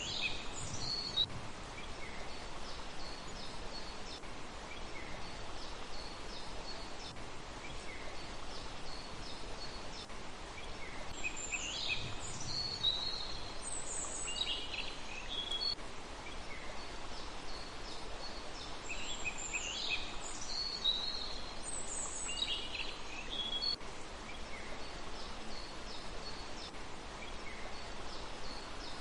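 Small songbirds calling and singing in quick chirping phrases, louder bursts about a second in, near the middle and about two-thirds through, with fainter scattered notes between, over a steady background hiss.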